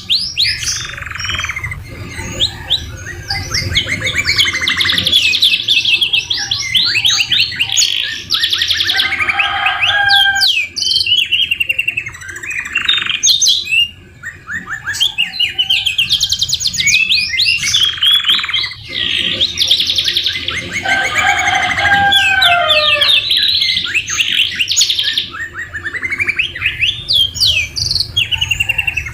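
Domestic canary singing continuously in fast rolling trills and rapid repeated notes. Its song is filled out with white-rumped shama phrases, including lower whistled runs about a third of the way in and again about three quarters of the way through.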